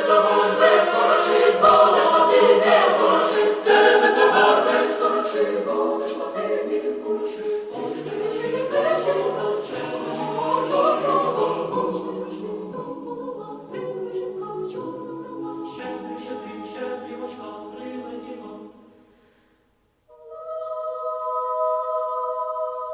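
Choir singing a Ukrainian shchedrivka (New Year carol) as background music, fading out about nineteen seconds in. After a short silence, a steady held chord begins.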